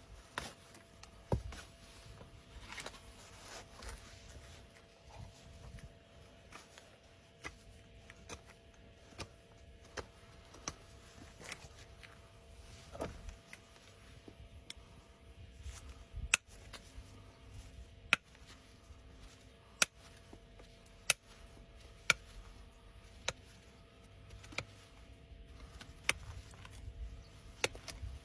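Sharp single clicks and snips every second or two, from hoof-trimming tools working on a horse's hoof, over a faint steady hum.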